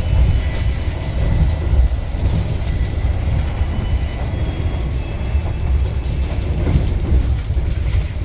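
KA Argo Bromo Anggrek passenger train running at speed: a steady low rumble with faint clicks and a thin high whine.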